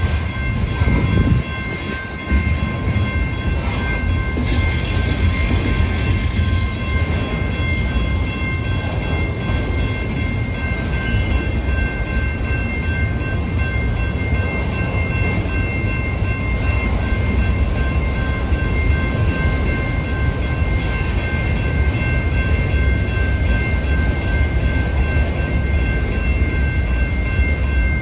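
Freight train cars (covered hoppers and BNSF autoracks) rolling past on the rails: a loud, steady low rumble of wheels on track, with a steady high ringing over it.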